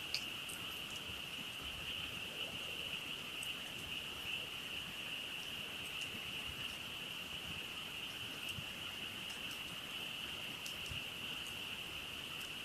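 A dense chorus of frogs calling together as one steady, high-pitched trill, with scattered faint crackles from a campfire and one sharper pop right at the start.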